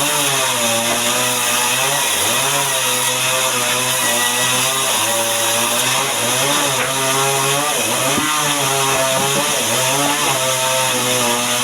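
Chainsaw cutting through wood, running loud and steady throughout, its engine pitch repeatedly sagging and picking back up as the bar bites under load.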